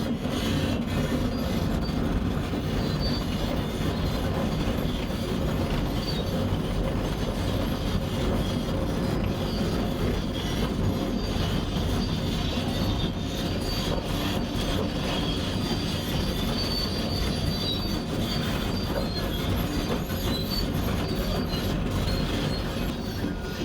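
Tracked excavator travelling downhill: its diesel engine running under the steady clanking and squealing of its steel tracks.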